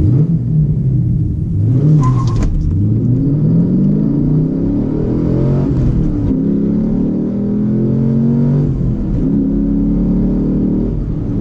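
Car engine revving, its pitch swinging up and down several times, then holding steadier, higher notes that drop suddenly a couple of times.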